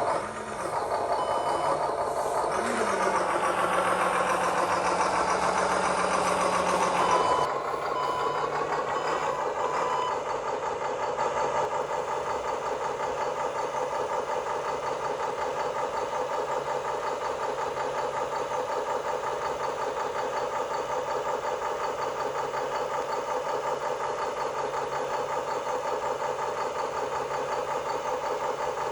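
Radio-controlled construction machine running with a steady engine-like drone. It is louder and busier for a few seconds, then settles into an even idle-like hum, with a few short beeps just after it settles.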